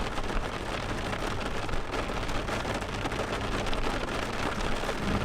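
Steady rain falling hard during a thunderstorm, an even, unbroken hiss of rain on surfaces.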